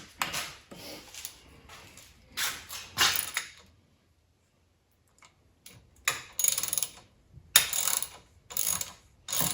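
Ratchet wrench clicking in several short bursts, with a pause of about a second and a half in the middle, as an aluminium bottom-bracket retainer ring is threaded into a bicycle frame.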